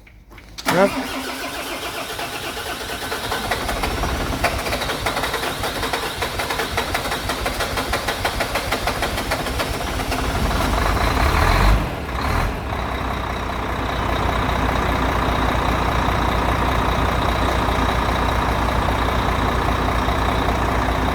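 Volvo FH13's 13-litre inline-six diesel starting: it catches about a second in with a rising note, runs, dips briefly about halfway, then settles into a steady idle. The knock it was repaired for is not heard.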